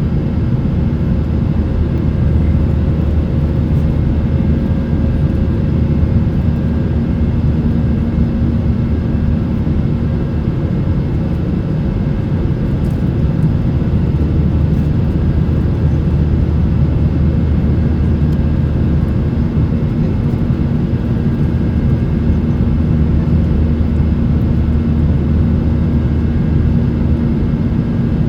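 Boeing 737-800's CFM56-7B turbofan engines and airflow heard inside the passenger cabin, a steady loud rumble with a few constant tones running through it and no change in pitch.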